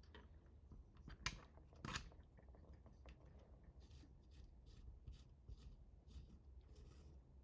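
Faint handling sounds: two sharp clicks about a second in, then a run of short scraping rustles, over a low hum.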